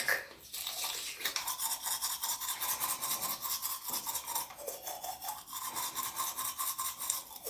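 Toothbrush scrubbing teeth in rapid, rhythmic back-and-forth strokes.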